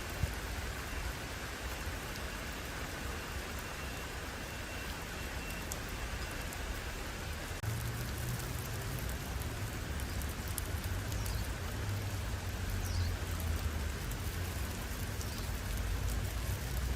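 Steady rain falling, an even hiss. About halfway through a low rumble joins it, and a few faint high chirps sound in the second half.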